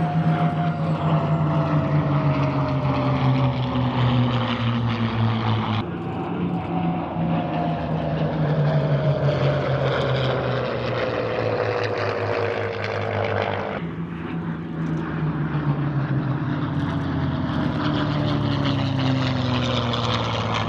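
Propeller aircraft engine running in flight, its pitch sliding down as it passes by. The sound cuts abruptly to a new pass about 6 seconds in and again about 14 seconds in.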